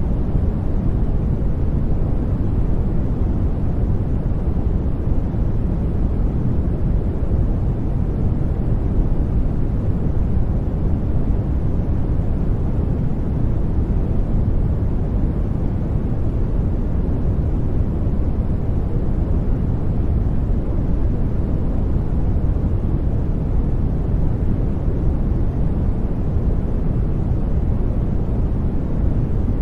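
Steady sleep-aid noise track: an even, deep rushing hiss, strongest low in pitch, that does not change.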